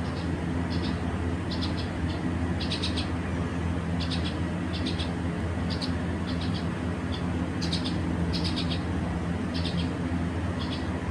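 A bird chirping in short groups of quick high notes, about one group a second, over a steady low hum.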